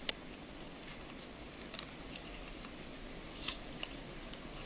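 Small Phillips screwdriver undoing a tiny screw inside an iPhone 5: a few light, sharp clicks of metal on metal, the loudest right at the start, over faint room hiss.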